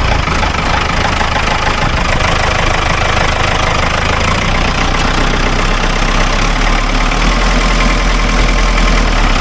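Ford 6600 tractor's three-cylinder diesel engine running steadily with a diesel clatter, its low note shifting about four and a half seconds in. The engine started quickly and shows no blow-by at the breather tube.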